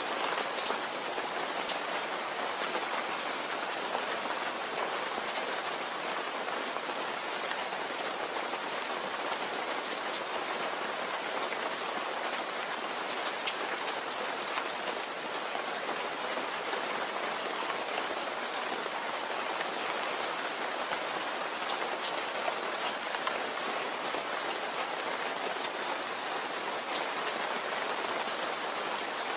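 Steady rain falling, an even hiss with scattered sharper drops ticking throughout.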